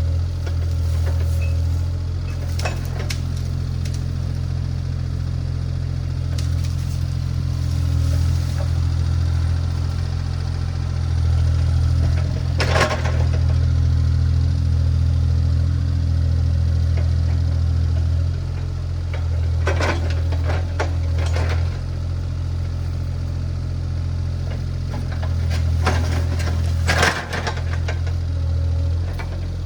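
Diesel engine of compact earthmoving equipment running steadily, its level rising and falling a little with load. A few sharp knocks break in, two close together about two-thirds of the way in and another near the end.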